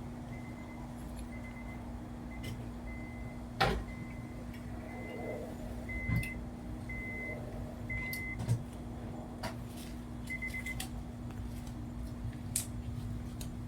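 A string of short, even electronic beeps, a little under two a second for about eight seconds with one more a couple of seconds later, over a steady low hum, with a few sharp clicks.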